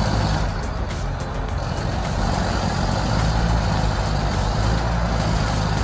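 Caterpillar D8H bulldozer's diesel engine running steadily as the dozer works, a deep even drone.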